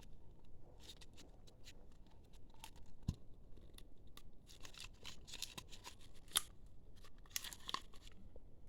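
Hand-operated oil extractor pump being worked to suck cold engine oil out of a Makita MM4 four-stroke strimmer: faint, irregular clicks and short scratchy rasps, denser about halfway through and again near the end.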